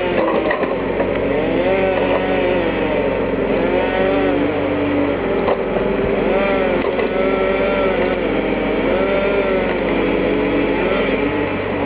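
Valtra T131h tractor's engine running steadily under load while its hydraulics work a log-loading crane, with a whine that glides up and down again and again, every second or two.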